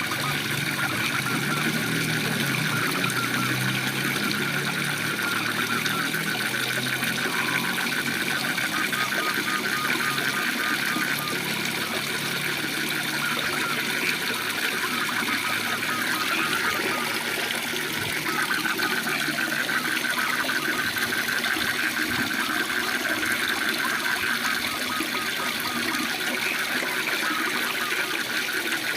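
Waterfall running steadily, with frogs calling in a fast, pulsing chorus over it.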